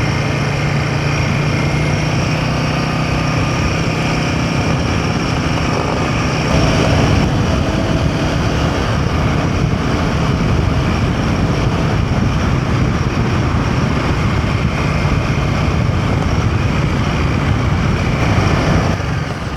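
Royal Enfield Himalayan 450's single-cylinder engine running steadily as the motorcycle rides a dirt track, mixed with a steady rush of wind and road noise.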